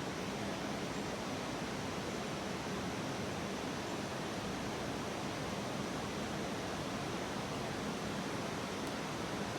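Flowing creek water rushing steadily, an even hiss with no breaks.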